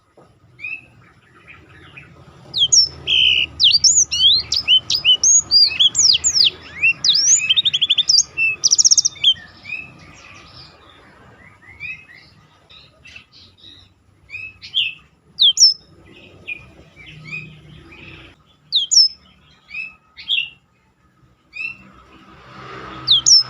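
Blackthroat (black-throated canary) singing: a fast run of sweeping whistled notes ending in a quick trill about nine seconds in, then scattered single notes and short phrases. A faint low hum runs underneath for much of it.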